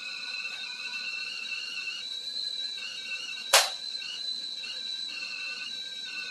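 Foedo 3.2-quart stainless steel stovetop kettle whistling at the boil: a steady high whistle with a second, wavering lower tone. There is one sharp click about three and a half seconds in.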